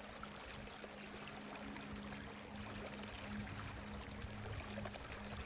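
A small stream flowing and trickling, faint and steady, with a faint steady low hum underneath.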